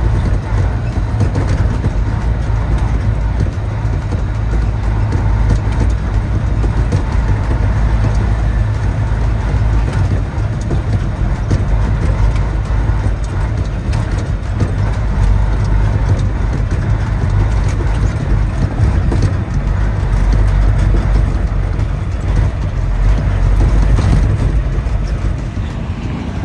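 Heavy dump truck running, a loud steady low rumble of diesel engine and mechanical noise.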